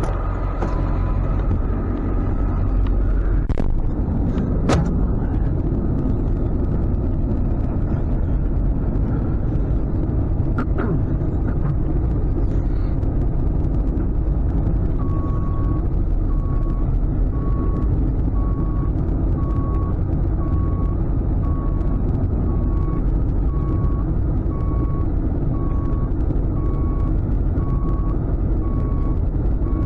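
Tow truck running steadily, with a couple of sharp clicks early on. About halfway through, a backup alarm starts beeping about once a second and keeps going.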